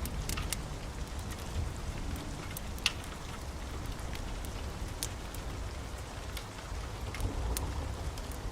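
Steady rain falling, with a low rumble underneath and scattered sharp clicks, one louder click about three seconds in.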